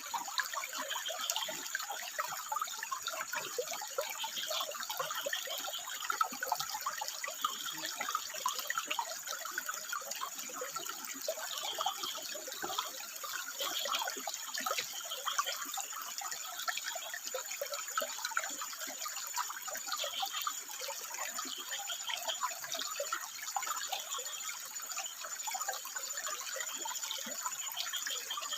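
Water running and trickling over rock in a continuous splashing babble, with frogs calling in short bursts every second or two.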